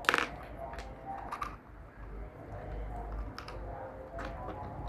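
Small plastic building bricks being handled and snapped together: a run of sharp clicks and light clatter, the loudest right at the start and a few more spread through the rest.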